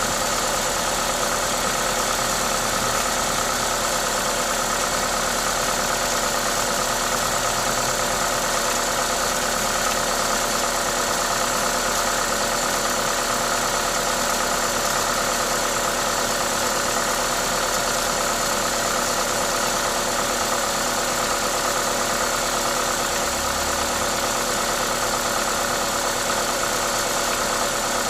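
Toyota 2ZZ-GE 1.8-litre four-cylinder engine running steadily, with a hiss from its aftermarket induction kit. This is the engine's normal running noise.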